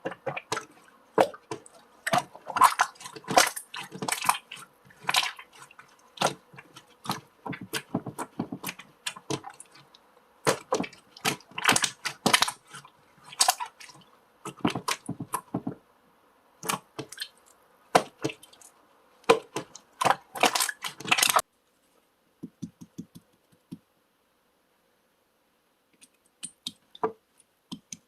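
Irregular clicks, taps and crackles in quick clusters, with a few seconds of near quiet about three quarters of the way through before the clicking resumes.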